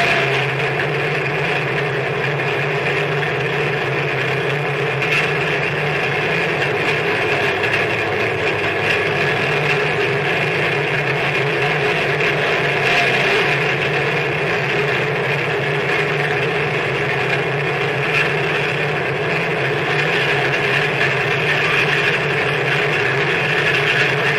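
Harsh noise music: a dense, steady wall of distorted noise with droning hums low and high that barely changes.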